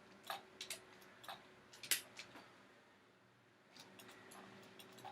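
Scattered clicks of a computer mouse and keyboard, the sharpest about two seconds in, over a faint steady hum.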